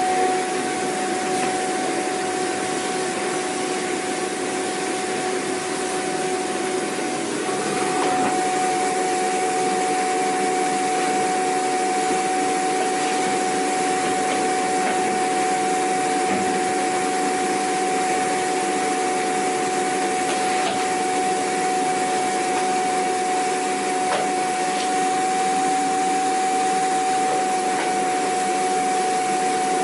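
Vacuum cleaner running steadily: a constant whine over a wide rushing hiss, with a slight shift in tone and loudness about seven seconds in.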